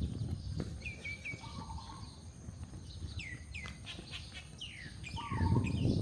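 Small birds calling: a few short even notes, then a quick run of falling chirps, over a low rumble that grows louder near the end.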